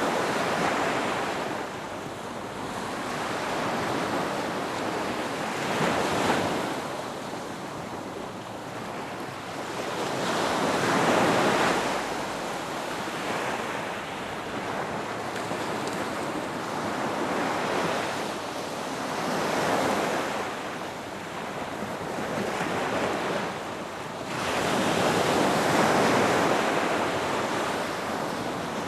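Ocean surf breaking and washing up on a beach. The surf swells and eases every few seconds, with the largest surges about eleven seconds in and again near the end.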